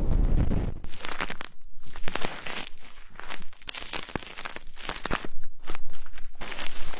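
Close-miked ASMR trigger sounds: a low rushing rumble on the microphone that stops under a second in, then dense, rapid crinkling and scratching strokes.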